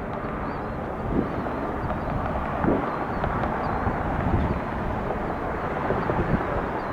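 Steady rumble of a distant jet airliner's engines.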